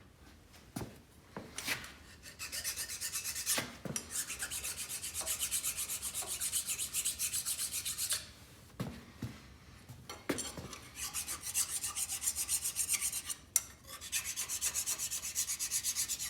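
Rapid back-and-forth hand rasping on a metal part, like a file or wire brush worked over a lathe part or bolt: three runs of even strokes several times a second, with a few clunks of the part being handled between them.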